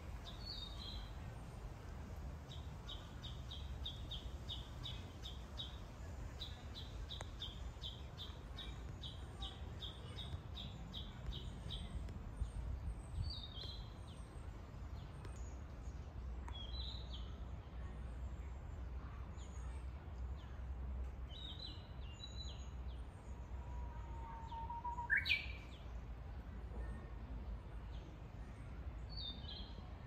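Japanese bush warblers (uguisu) and other small forest birds singing. Through the first twelve seconds there is a quick run of repeated high notes, followed by scattered short phrases. The loudest call comes about 25 seconds in: a held whistle that sweeps sharply upward. A steady low rumble runs underneath.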